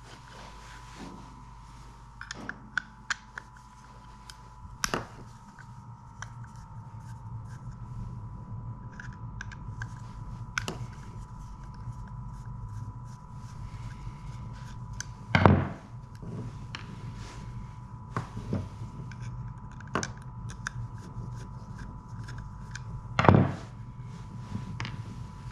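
Scattered clicks, taps and knocks of hand tools and small metal parts being handled while a small electric fuel shut-off actuator motor is taken apart, with two louder knocks, one about halfway through and one near the end. A faint steady hum runs underneath.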